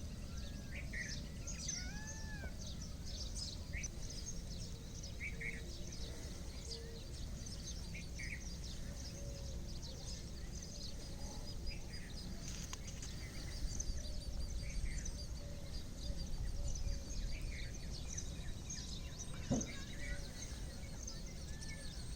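Many small birds chirping and calling over a steady low background rumble of outdoor ambience.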